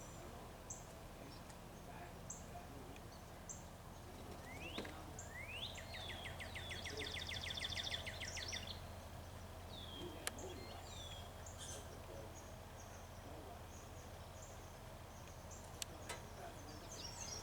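Wild birds chirping and calling, with short high chirps every second or so and a rapid trill about five seconds in. A steady low hum of background noise sits under them.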